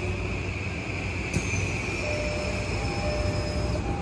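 Cabin ambience of a Tokyo Metro 18000-series electric train standing at a station: a steady hum from the train's on-board equipment. About a second and a half in there is a click, followed later by faint steady tones.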